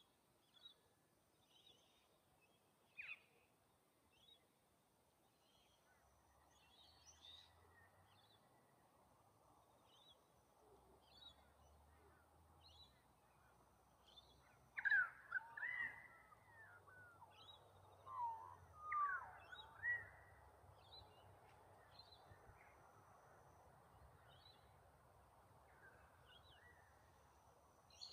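Wild birds calling: faint short high chirps scattered throughout, with louder, sliding, pitch-changing calls in two clusters, about 15 seconds in and again around 18 to 20 seconds.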